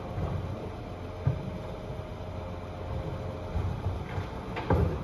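Scania bin lorry running, its engine a steady low rumble under a steady whine that stops about three and a half seconds in, with a thump about a second in and a louder knock near the end as bins are handled.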